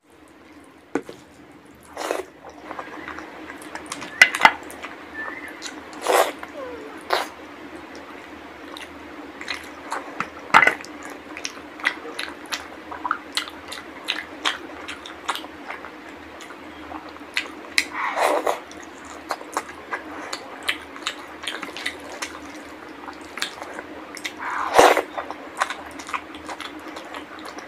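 Close-miked eating by hand: wet chewing, lip smacks and mouth clicks as mouthfuls of rice and mutton curry are eaten, with a few louder wet smacks. A faint steady hum sits underneath.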